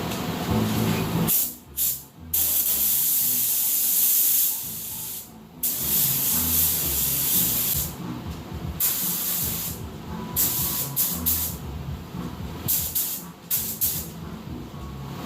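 Spray paint hissing in bursts as brake calipers and rotors are painted: long sprays with brief breaks, then a run of short spurts in the second half.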